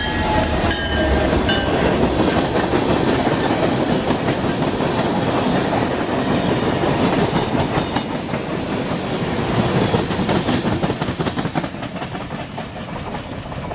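Train cars rolling past on the rails, wheels clacking over the rail joints, with a brief high wheel squeal near the start. The sound eases a little near the end.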